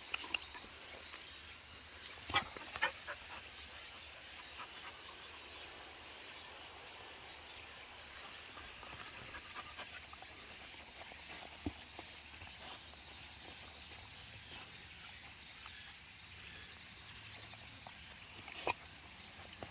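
Faint sounds of Jindo dogs close by, with a few scattered clicks and taps over a steady high outdoor hiss.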